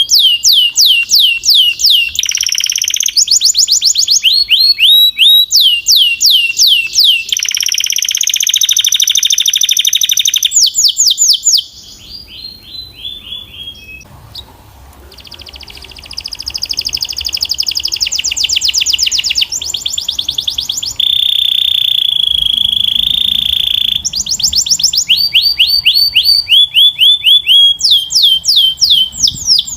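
Canary singing a loud, rapid song of repeated falling whistled notes alternating with rolling trills and buzzy held phrases. The song drops away briefly about halfway through, then resumes.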